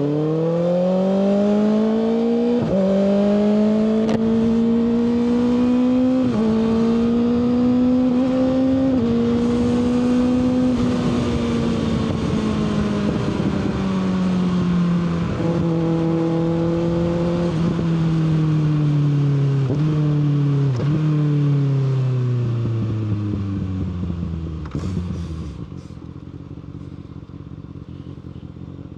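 Kawasaki ZX-6R inline-four motorcycle engine accelerating through three quick upshifts, each a sharp drop in pitch before it climbs again, then cruising. It then slows through several downshifts, the pitch falling away, and settles to a quieter idle near the end.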